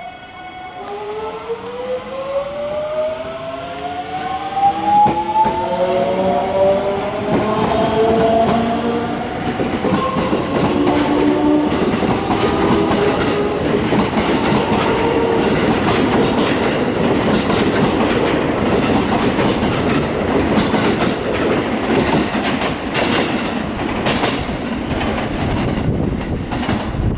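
Electric train pulling out and accelerating past: the traction motors' electronic whine climbs steadily in pitch over the first ten seconds or so, then gives way to loud wheel noise with quick clicks as the cars clatter over the rail joints.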